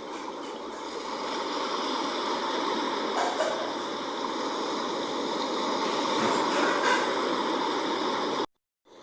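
Sea waves washing on the shore: a steady rush of water that swells slowly. It cuts out abruptly to silence for about half a second near the end, then resumes more quietly.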